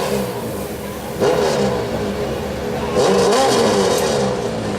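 Modified lawn tractor with a 1200 cc Suzuki motorcycle engine revving, its pitch swinging up and down, with sharp rises in revs about a second in and again about three seconds in.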